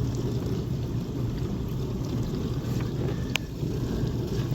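Samsung DW80M9550UG dishwasher running, a steady low hum and rumble with water moving inside while it leaks at the front. A single sharp click about three seconds in, as a small cover is opened.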